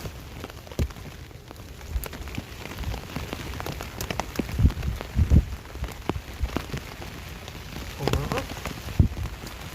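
Rain falling on a basha tarp shelter overhead: a steady hiss with irregular drops striking the fabric, and a few heavier knocks now and then.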